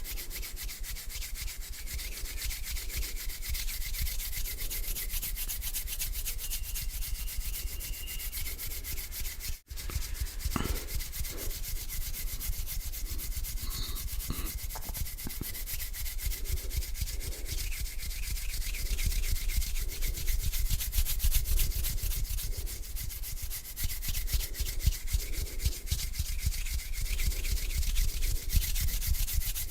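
Bare hands rubbing together slowly close to a microphone, a dry continuous friction sound that swells with each stroke about once a second. It briefly cuts out about ten seconds in.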